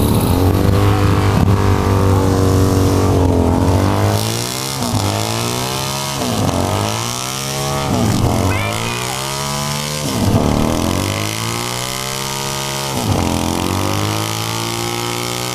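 Motorcycle engine running steadily, then revved up and down several times, its pitch climbing and falling in repeated swells.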